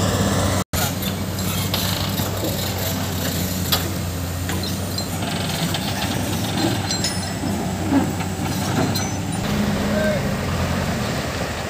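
Diesel engines of heavy construction machinery running steadily, with scattered sharp knocks and clanks from the work. The sound drops out completely for an instant about a second in.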